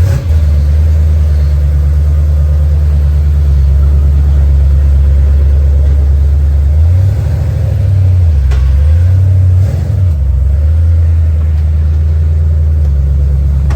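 Twin-turbo 6.2-litre LS3 V8 running loud and steady at around idle, with two brief changes in engine note about seven and nine and a half seconds in.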